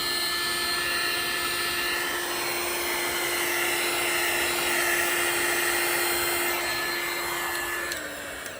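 Handheld electric hot-air blower running steadily, a rushing blow with a constant hum, used to push white resin into wave lacing on coasters; it is switched off near the end and its hum drops away.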